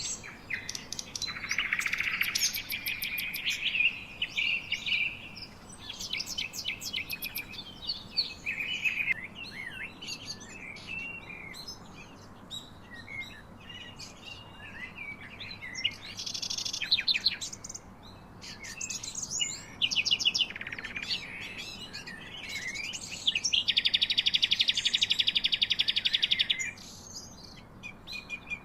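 Several birds chirping and singing in overlapping calls and trills, with a loud fast trill held for about three seconds near the end.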